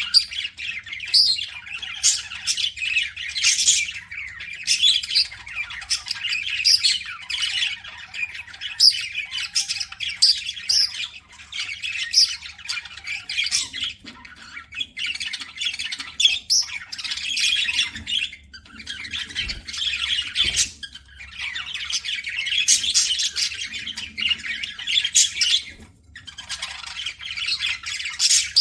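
Budgerigars chattering and squawking without a break, a dense run of short high chirps and squawks.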